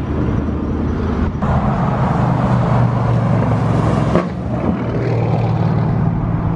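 A car engine running steadily at low revs, with a low hum that shifts abruptly twice.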